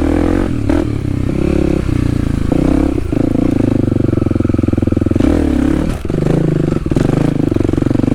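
Kawasaki KLX300's single-cylinder four-stroke engine running steadily as the dirt bike rides a trail, with the throttle eased off and back on several times and a few knocks over rough ground.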